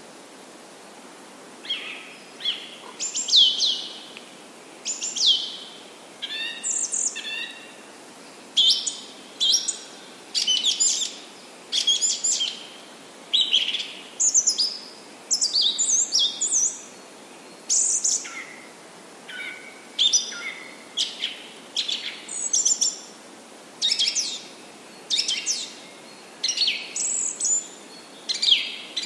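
Birds singing: a steady stream of short, high chirping phrases, many sliding down in pitch, about one every second, over a faint steady hiss.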